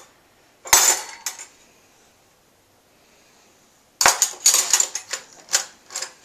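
Metal cutlery clinking and clattering as pieces are dropped into a silverware drawer: a short clatter about a second in, then a longer run of clinks from about four seconds in.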